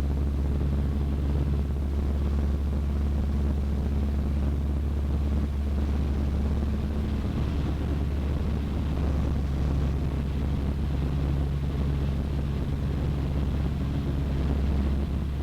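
Cessna 152's four-cylinder Lycoming O-235 engine and propeller droning steadily in flight, heard from the cabin. It is a low, even drone with a few steady tones above it.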